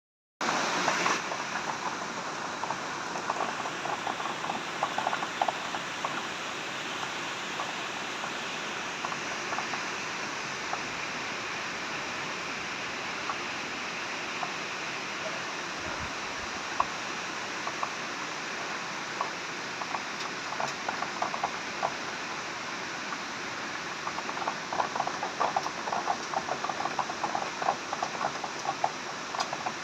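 Heavy rain falling steadily, a continuous hiss with many close individual drop splashes, which come thicker at times.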